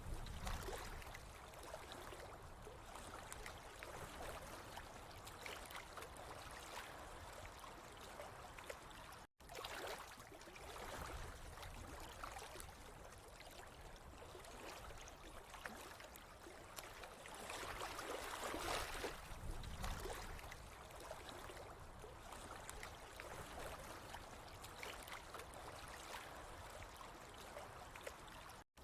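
Water flowing and trickling steadily, swelling a little louder about eighteen seconds in. The sound drops out for an instant twice, about nine seconds in and near the end, where clips are joined.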